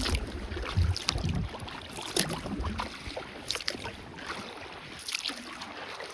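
Kayak paddle strokes splashing in the water as the kayak is driven hard upstream against the river current, a quick uneven run of splashes with a few low thumps near the start.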